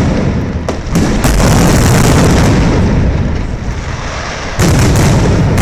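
Aerial fireworks bursting in quick succession, loud booms overlapping with crackle, with fresh bursts coming in about a second in and again near the end.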